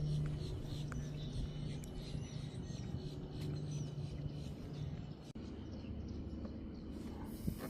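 Birds chirping over a steady low hum. The hum breaks off abruptly about five seconds in and gives way to a lower rumble.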